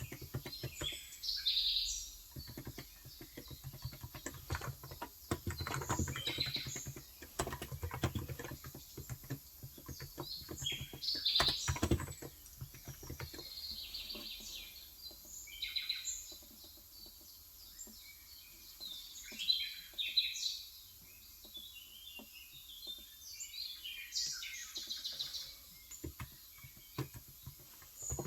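Small birds chirping and twittering in short repeated calls throughout, with intermittent clicks of typing on an electro-capacitive (Topre-style) keyboard, denser in the first half.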